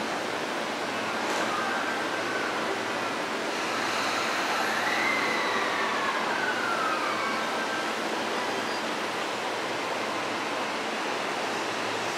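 Electric train running at the station: a steady rush of wheel and track noise, with a faint whine that rises and then falls in pitch near the middle.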